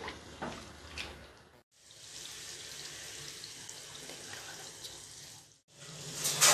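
Chicken gravy simmering in a kadai after a litre of water has gone in, a steady bubbling hiss. A few light knocks in the first second and a half.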